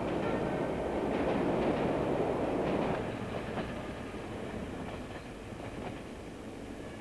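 Passenger train running along the track: a steady rumble with a few faint wheel clicks, dropping in level about three seconds in.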